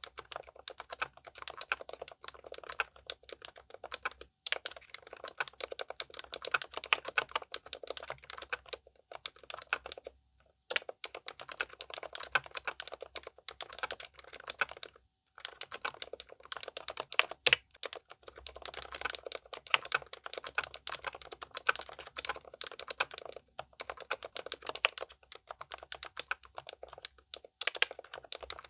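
Continuous fast typing on a Keychron K10 Pro SE full-size mechanical keyboard with pre-lubed K Pro silent red switches, soft muted keystrokes in quick runs broken by short pauses, with the odd louder stroke such as a bigger key.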